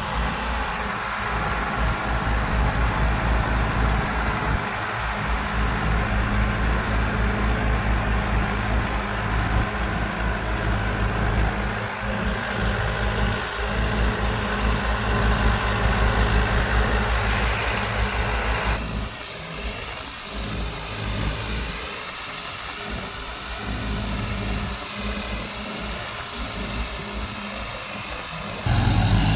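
Diesel tractor engine running with a steady low chugging pulse. About 19 s in the sound suddenly drops quieter and thinner.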